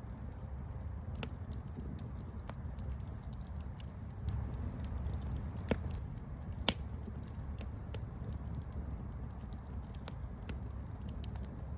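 Wood fire burning with a steady low rumble and scattered crackles, and two louder pops a second apart just past the middle.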